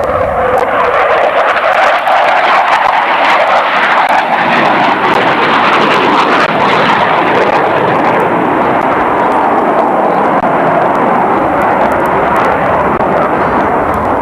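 An aircraft flying past with a loud, steady roar of engine noise. The roar brightens over the first few seconds, then eases lower in pitch as the aircraft goes by.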